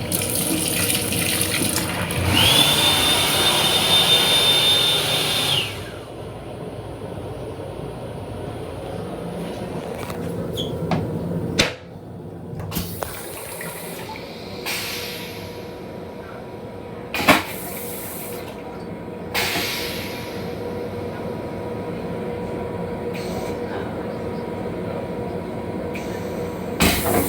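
Toilet of an M7 railcar restroom flushing: a loud rushing lasting about six seconds, with a steady high whistle over its second half. Then the train's steady running noise, with a few sharp knocks.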